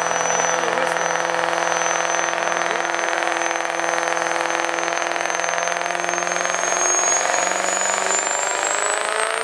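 Diesel pulling truck's engine running hard and steady under load on a sled pull, with a thin high whistle that climbs in pitch near the end.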